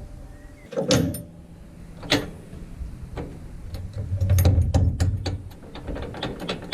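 Sharp metallic clunks, two at first, then a quick run of clicks and knocks over a low rumble about four seconds in. This is hitching gear being worked while a mower is fitted to the tractor.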